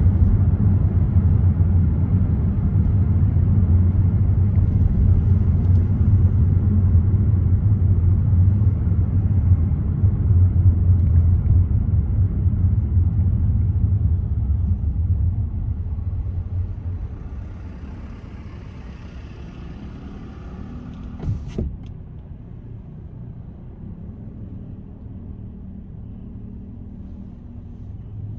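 Car driving on city roads: a steady low rumble of road and engine noise that falls away to a much quieter hum about two-thirds of the way through. Shortly after, there is one short, sharp sound.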